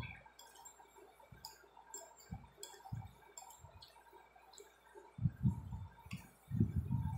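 Close-up chewing and mouth sounds, loudest in two spells late on, with light clinks and taps of a metal spoon and fork against a plate.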